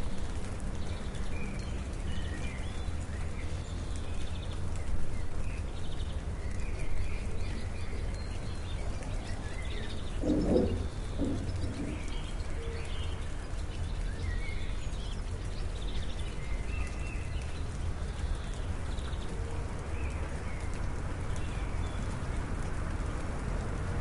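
Outdoor ambience: small birds chirping on and off over a steady rushing noise with a low rumble. A short, louder, lower sound stands out about ten seconds in.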